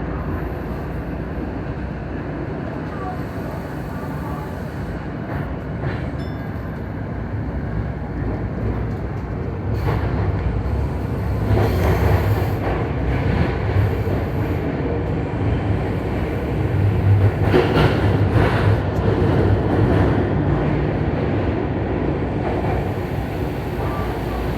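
Tokyu Den-en-toshi Line commuter train running, heard from inside the front car: a steady low rumble of wheels and traction motors that grows louder about ten seconds in, with bursts of wheel-on-rail clatter.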